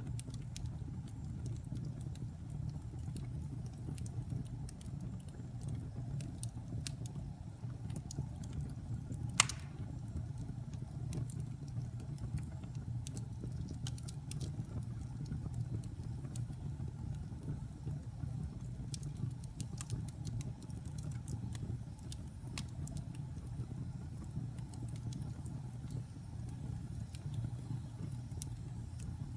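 Wood fire burning in a fireplace: a steady low rumble with scattered crackles and one loud pop about nine seconds in.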